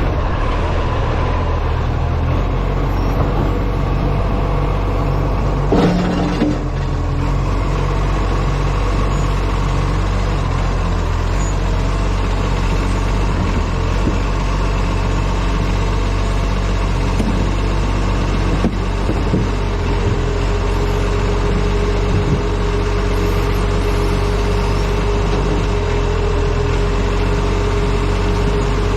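Diesel engine of an ACCO garbage truck running steadily at low revs, heard from the front of the truck, with a brief knock about six seconds in. A steady whine joins about two-thirds of the way through.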